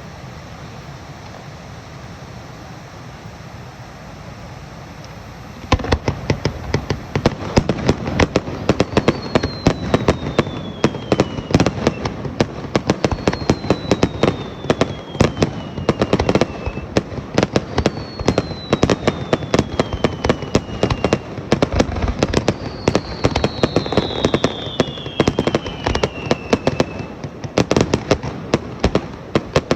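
Fireworks display: after about five seconds of steady background crowd noise, a dense barrage of firework bangs starts and keeps going, with several falling whistles sounding over it.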